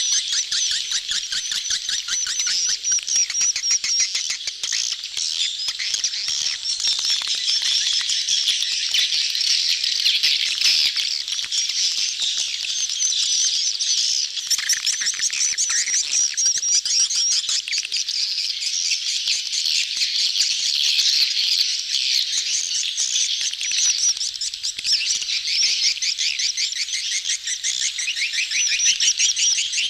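A crowd of edible-nest swiftlets twittering: a dense, unbroken chatter of many rapid, overlapping high-pitched chirps and clicks. It is a swiftlet lure recording of colony mating calls, played to draw swiftlets into a nesting house.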